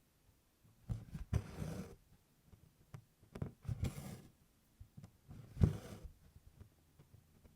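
Embroidery floss being pulled through 24-count cross-stitch canvas in tent stitch: three rasping swishes of thread drawn through the fabric, each with soft taps of the needle, spaced a couple of seconds apart.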